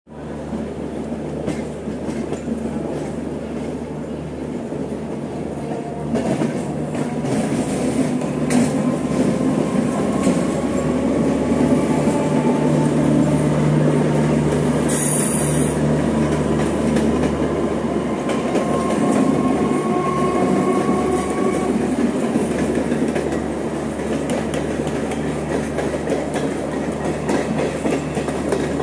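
Electric suburban EMU trains running side by side at speed: steady rumble and motor hum with wheels clattering over the rail joints. A faint, slowly rising whine runs through the middle, and a brief high hiss comes about halfway through.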